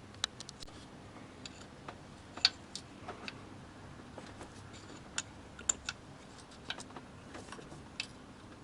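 Irregular light clicks and taps of a hand tool on metal, as the hold-down bolt of the ignition distributor is being loosened.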